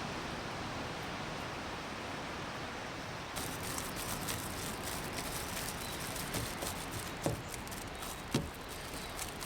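Steady wash of ocean surf; about a third of the way in, a scatter of small crackles and clicks joins it, with two sharper knocks near the end.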